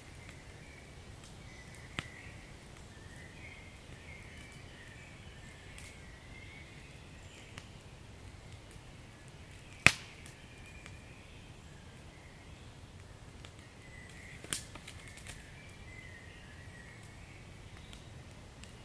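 Wood fire crackling: a few sharp pops, the loudest about ten seconds in, over a low steady rumble and a faint hiss.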